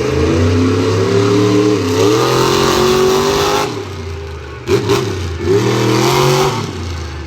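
Monster truck engine revving hard: a long rev that climbs about two seconds in and drops off partway through, then two quick throttle blips, the second held briefly.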